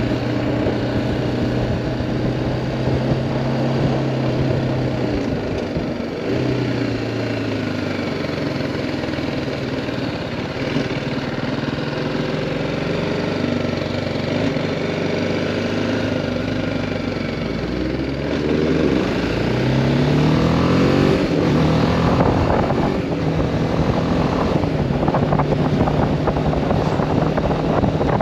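BMW G310R's single-cylinder engine running steadily at low revs, easing off at about five seconds, then climbing in pitch under acceleration about two-thirds of the way in, with louder wind and road noise after that.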